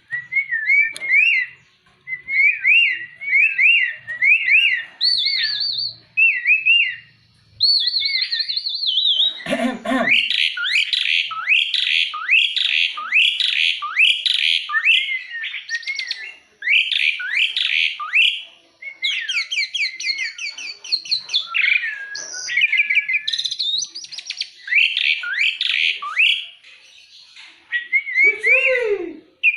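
Jalak uret starling in full song: a loud, continuous run of varied whistled chirps, trills and sweeping notes with only short breaks.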